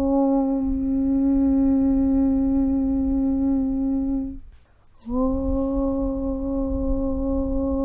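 A voice chanting a long, steady 'Aum' (Om) hum on one low pitch. It stops about four and a half seconds in for a breath, and the next Aum begins about half a second later.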